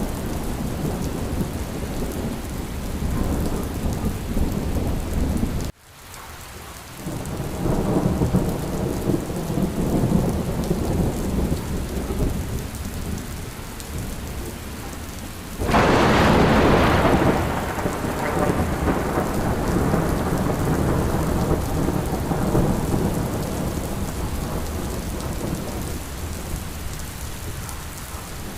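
Steady rain with thunder. The sound cuts out sharply for a moment about six seconds in, then a low thunder rumble swells. A loud thunderclap comes about sixteen seconds in and rolls away over several seconds.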